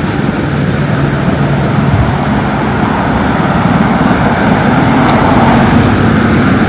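A motor vehicle's engine running close by: a steady low hum over a wash of noise that gets a little louder in the second half.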